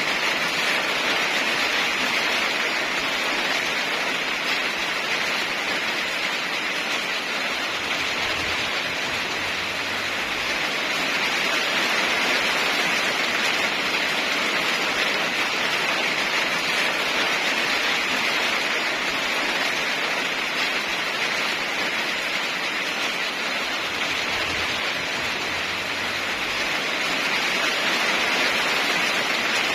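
Heavy rain falling steadily, a dense even hiss that swells a little louder every so often.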